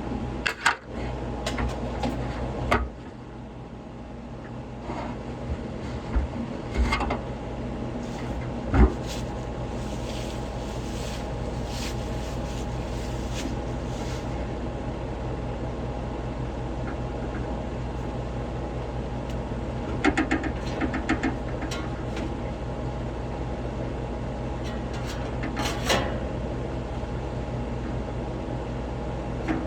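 Steady machine hum from running HVAC equipment, dropping a little about three seconds in, with scattered clicks and knocks of parts and tools being handled.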